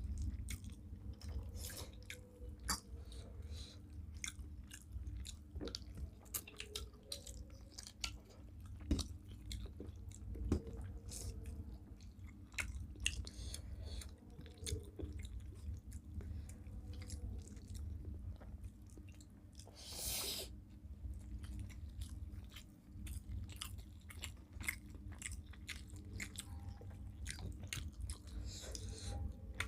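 Close-up chewing and mouth sounds of people eating rice with fish curry, a steady run of small wet clicks and smacks. One louder, breathy burst comes about twenty seconds in. A steady low hum sits underneath.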